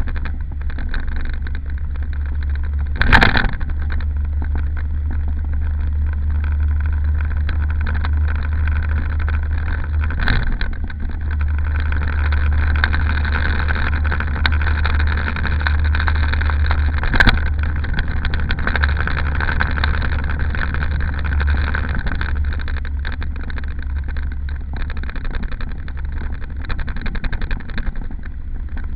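Daihatsu Mira Gino running with a steady low drone, with three short knocks about three, ten and seventeen seconds in.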